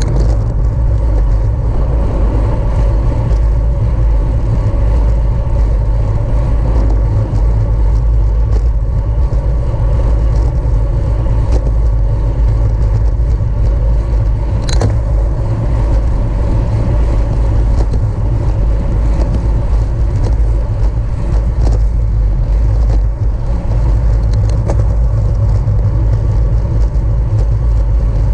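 Steady wind noise on the microphone of a camera riding on a racing bicycle at speed, with tyre and drivetrain noise underneath. A sharp click about halfway through.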